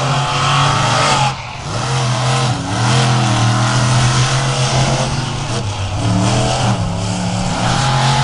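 Monster truck engine running hard, revving up and down with the throttle, with a brief lift off the throttle about a second and a half in.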